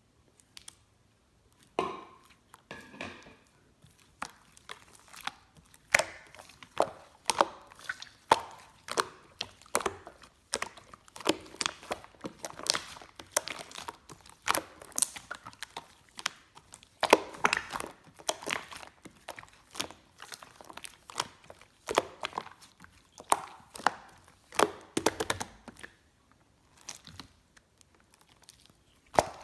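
Slime being squished, pressed and poked by hand, giving irregular sharp clicks, pops and crackles that briefly die down a few seconds before the end.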